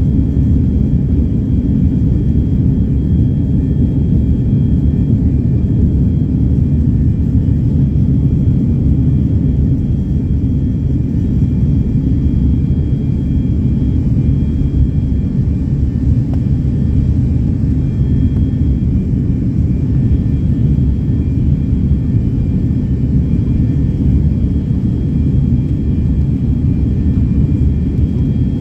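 Steady low rumble of jet engines and airflow heard inside the cabin of a twin-aisle jet airliner, with faint steady high-pitched tones over it and no change in level.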